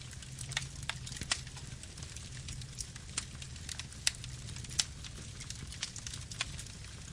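Campfire burning: a low steady rumble of flames with irregular sharp crackles and pops of burning wood, a few louder snaps now and then.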